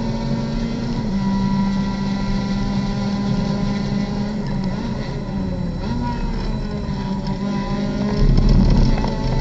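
Mazda MX-5 race car's four-cylinder engine heard from inside the open cockpit, running hard under full throttle. Its note steps down in pitch about a second in as it shifts up. Around the middle the revs dip and jump as the car brakes hard from over 100 mph and downshifts, with a louder low rumble near the end.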